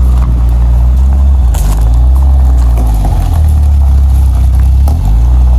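Citroën AX GT rally car's engine running loud, its pitch stepping up and down a few times as the revs change.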